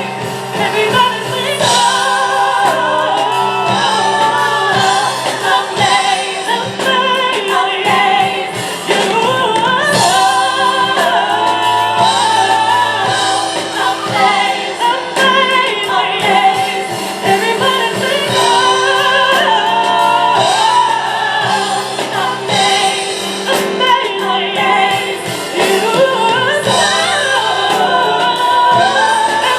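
Live gospel music: women's voices singing together over piano accompaniment.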